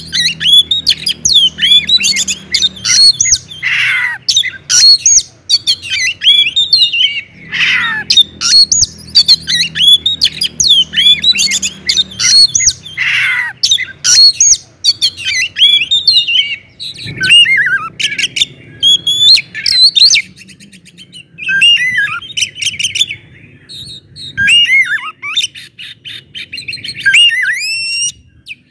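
Oriental magpie-robin (kacer) singing loudly and continuously, a varied song of whistles, quick rising and falling glides and rapid trills. A few harsh, downward-sweeping notes come in the first half, and the phrases grow more spaced near the end.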